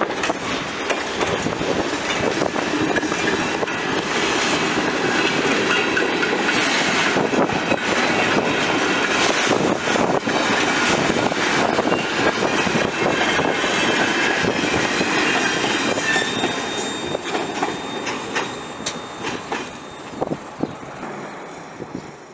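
Train wagons rolling past, their wheels clacking over rail joints with some high wheel squeal; the sound fades away over the last few seconds as the train moves off.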